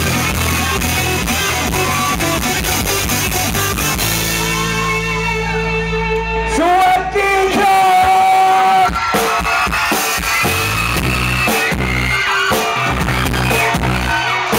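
Live rock band music with guitars, drums and singing.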